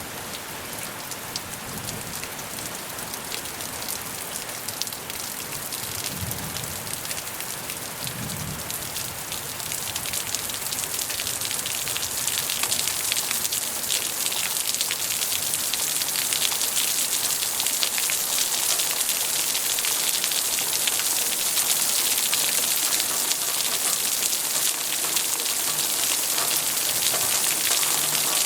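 Steady rain falling, a dense patter of drops that grows heavier and louder from about ten seconds in.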